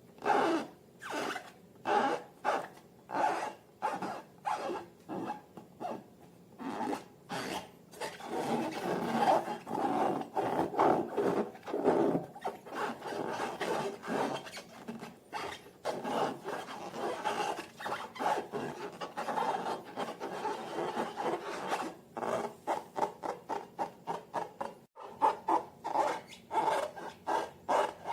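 Slime being mixed and worked by hand, making repeated squishing, rubbing strokes. The strokes come about twice a second at first, run together into a denser stretch from about eight seconds in, then turn quicker and shorter near the end.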